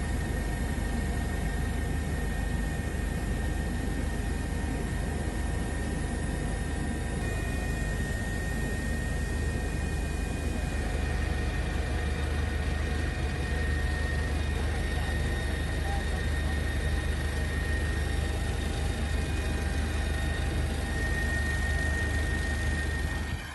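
Helicopter running: a steady loud rumble with constant high tones over it, cut off suddenly at the end.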